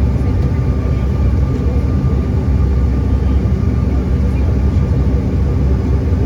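Steady low drone of a regional airliner's engines heard inside the passenger cabin, with a few steady tones running through it.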